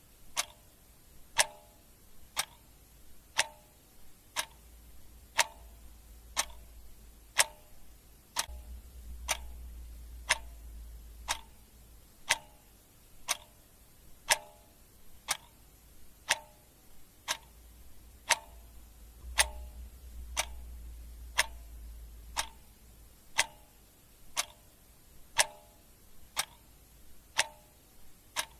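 Clock ticking steadily about once a second, alternate strokes differing slightly in tone like a tick-tock. A faint low hum rises and fades twice underneath.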